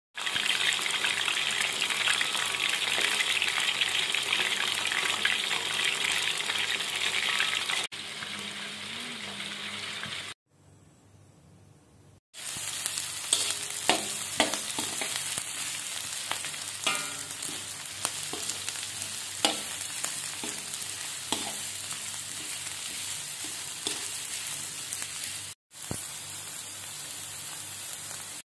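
Turmeric-coated chicken pieces frying in hot oil in a wok, a loud steady sizzle. After a short quiet break about ten seconds in, sliced onions sizzle in oil while a spatula stirs them, scraping and ticking against the wok.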